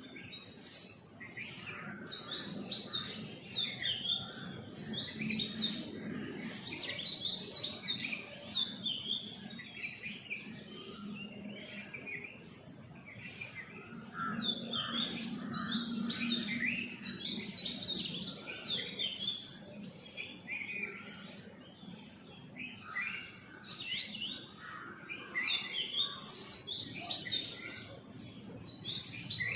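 Small songbirds chirping in a busy morning chorus: many quick, overlapping high chirps and twitters, with no pause.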